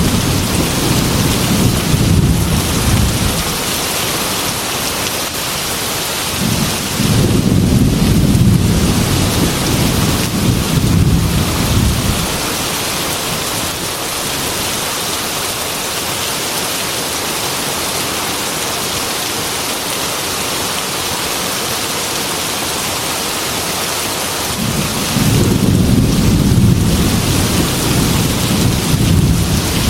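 Heavy rain pattering steadily on a glass window, with three long rolls of rumbling thunder: one at the start fading by about three seconds in, one from about seven to twelve seconds in, and one near the end.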